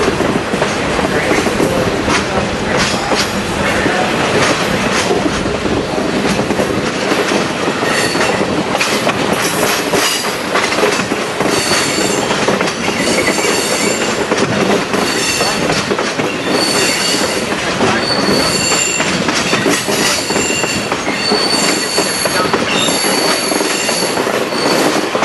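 Passenger train running on the rails with a steady rolling noise. High-pitched wheel squeal comes and goes repeatedly through the second half.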